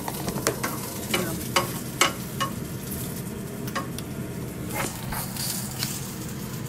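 Eel pieces frying in hot oil: a steady sizzle with frequent sharp pops and crackles of spitting oil.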